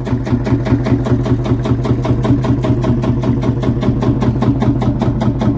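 Marshall tractor's single-cylinder two-stroke diesel engine running steadily, with an even, rapid beat of about eight or nine strokes a second from its single cylinder firing.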